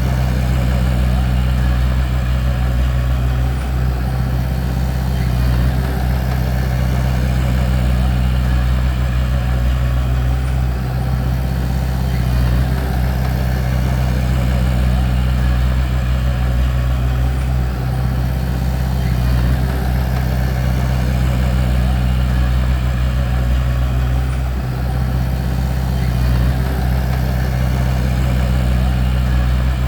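Bulldozer's diesel engine running at a steady speed, a deep, even drone that holds one pitch with no revving.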